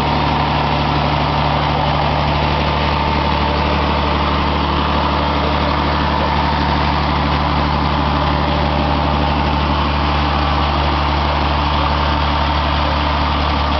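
Toyota 3S four-cylinder engine, converted to electronic-injection biogas running, idling steadily with an even low hum that does not change.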